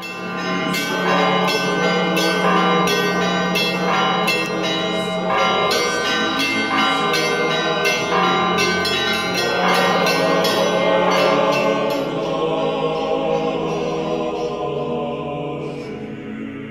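Church bells ringing a rapid peal of many overlapping strikes, each ringing on, dying away over the last few seconds.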